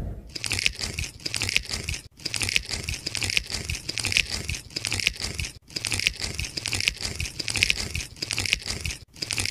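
Dense, irregular crinkling and crackling noise, breaking off briefly about two seconds in and again about five and a half seconds in.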